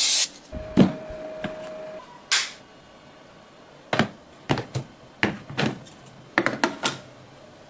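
A series of irregular plastic clicks and knocks from hair clipper set parts being handled, bunched quickly near the end, with a thin steady tone lasting about a second and a half early in.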